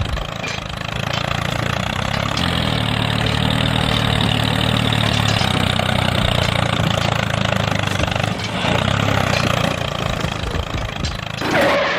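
Engine running steadily with an even, idling-like hum, rising in pitch briefly near the end before cutting off suddenly.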